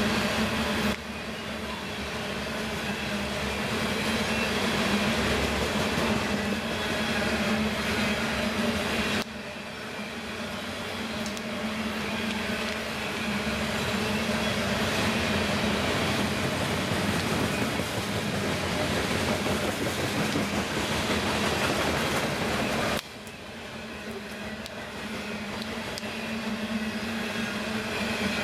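Freight train rolling past with a steady rumble and rattle of wheels and cars on the rails. The sound drops off suddenly about a second in, again around nine seconds and again near twenty-three seconds, building back up each time.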